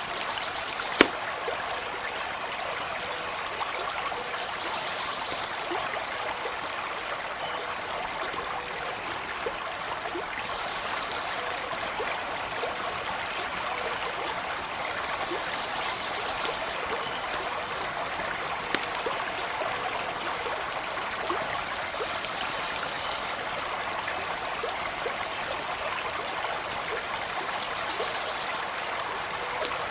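Stream of water running steadily, with scattered sharp crackles and pops from a campfire, the loudest about a second in.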